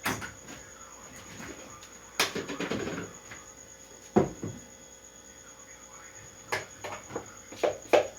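A few scattered knocks and clatters of kitchen things being handled, with quiet in between: a sharp knock about two seconds in, another about four seconds in, and a cluster of knocks near the end.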